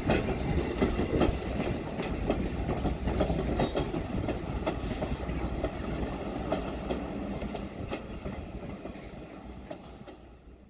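Train running on track, a steady rumble with irregular clicking of wheels over the rails, fading out near the end.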